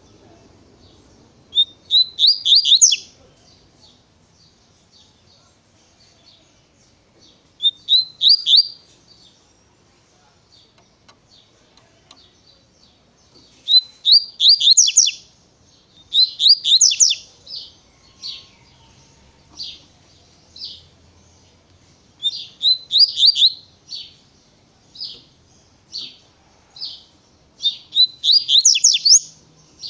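Double-collared seedeater (coleiro) singing its tui-tui song: short, fast, high-pitched trilled phrases about every five to six seconds, with single high notes about once a second between some of the phrases.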